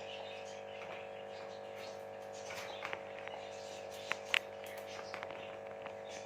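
Pet parrot making faint short chirps and squeaks, with two sharper chirps a little past the middle, over a steady background hum.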